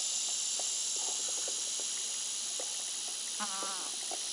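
Steady, high, buzzing insect chorus. A goat gives one short, faint, low call about three and a half seconds in.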